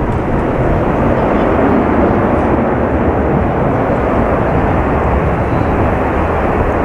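Jet airliner engine noise: a loud, steady rush that holds level with no rise or fall in pitch.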